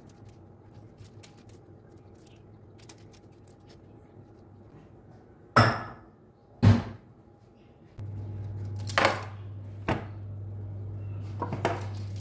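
Kitchen clatter of dishes and utensils: light ticking, then two sharp knocks about halfway through and a few more near the end. A steady low hum starts about two-thirds of the way in.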